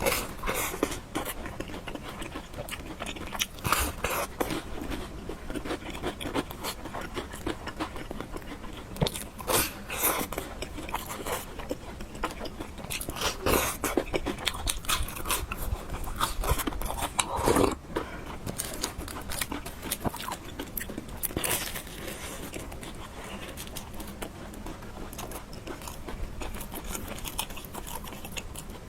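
Close-miked mukbang eating: chewing and biting food, with utensils scraping, in irregular bursts.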